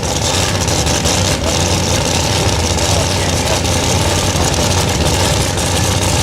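Modified pulling tractor's engine running steadily at idle.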